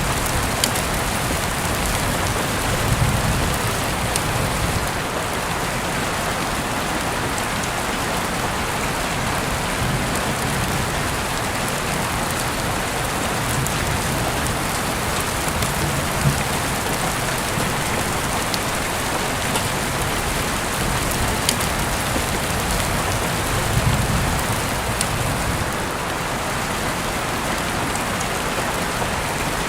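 Heavy rain falling steadily, a dense even hiss with scattered sharper drop ticks. Brief low rumbles swell up about three seconds in and again near the end.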